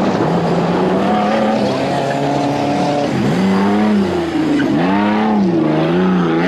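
Off-road race vehicle's engine working hard. Its pitch holds and slowly climbs for about three seconds, then dips and rises again and again, about once a second, as the throttle is blipped.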